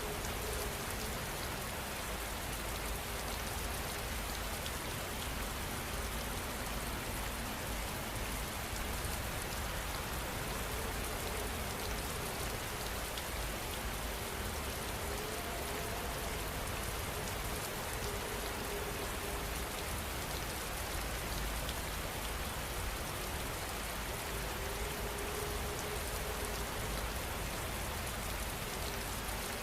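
Heavy rain falling steadily, an even hiss of rain on surfaces at a constant level.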